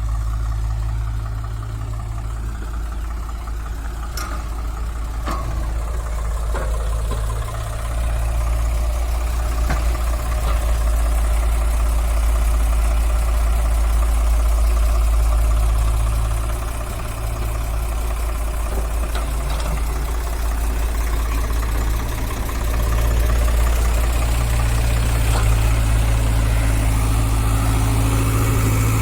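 Heavy diesel engine running, its level swelling and easing several times as the load on it changes, with two sharp knocks about four and five seconds in.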